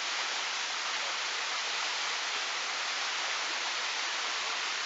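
Steady rush of water flowing and splashing down the Sticky Waterfall's rock cascade, an even hiss.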